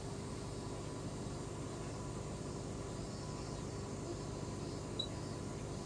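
Steady machine hum with a faint high whine and hiss, unchanging throughout; a brief faint high tick about five seconds in.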